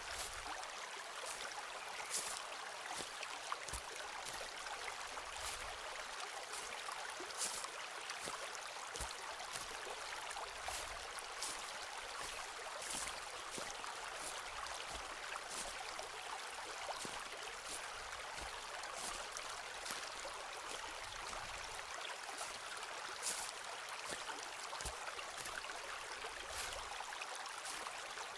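Footsteps walking through a forest, with irregular short crackles and a few soft low thuds over a steady rushing background.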